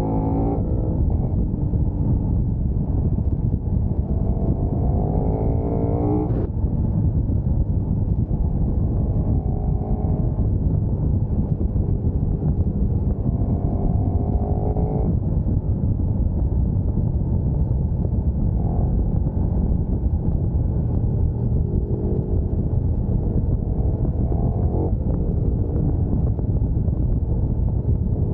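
KTM 1290 Super Duke R's V-twin engine pulling hard, its revs climbing in long rising pulls that break off sharply at each upshift, about three times. A heavy rush of wind on the helmet or bike microphone runs under it throughout.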